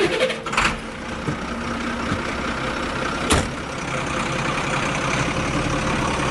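Heavy truck engine running steadily, with a sharp knock about three seconds in.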